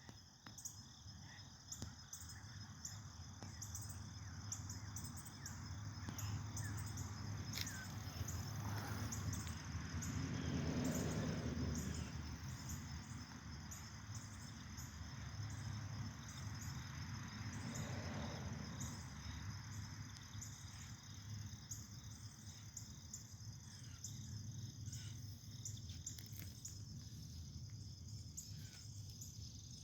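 Insects chirping steadily in quick, regular high-pitched pulses, over a low background rumble that swells twice. A single downward-sliding call sounds about eight seconds in.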